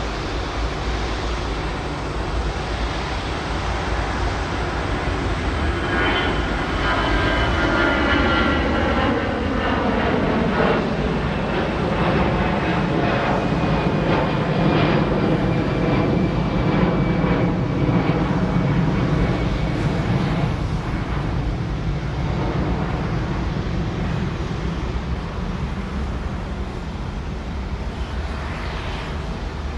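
An aircraft's engines at an airport: a steady rumble with a high whine that comes in about six seconds in and slowly falls in pitch, the rumble swelling toward the middle and easing off near the end, as the plane passes.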